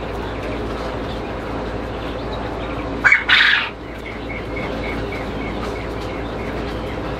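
A bird squawks once loudly about three seconds in, then gives soft, evenly repeated chirps several times a second, over a steady background hum.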